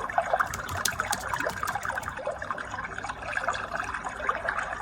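Steady trickling running-water sound, full of small quick splashes, played through a white noise night light's small speaker.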